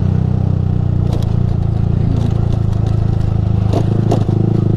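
Yamaha R15 V3's single-cylinder engine running steadily through a Ronin Musashi aftermarket exhaust, a low, even note. A few short clacks and rattles come over it, a little after a second in and twice near the end, as the bike rides over the rough road surface.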